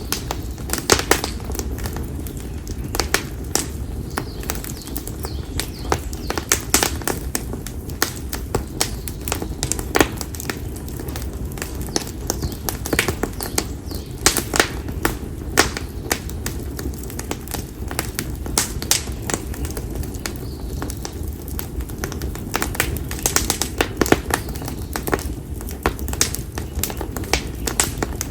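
Split konara oak (Japanese oak) firewood burning in an open campfire, crackling with sharp, irregular pops and snaps over a steady low rumble.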